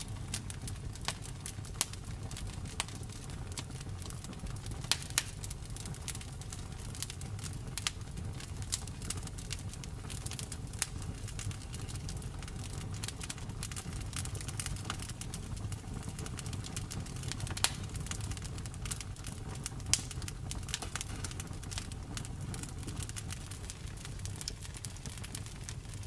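Wood fire burning with a steady low rumble and frequent irregular crackles, a few sharper pops standing out.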